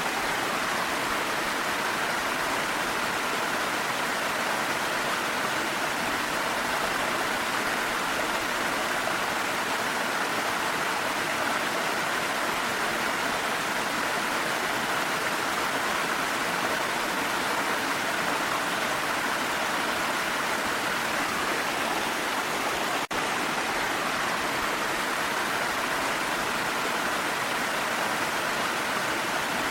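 Steady rushing of a waterfall, an even hiss of falling water with no change in level apart from a momentary dip about two-thirds of the way through.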